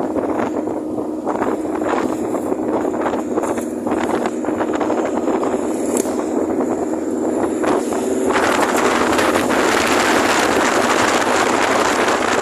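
Wind buffeting the microphone while riding a Honda Genio scooter, its engine running steadily underneath. About eight seconds in the wind noise grows louder and stays that way.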